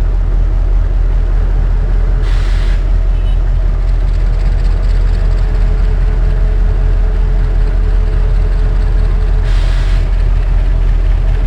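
Passenger train in motion, heard from aboard: a loud, steady low rumble, with two short bursts of hiss, one about two seconds in and one near the end.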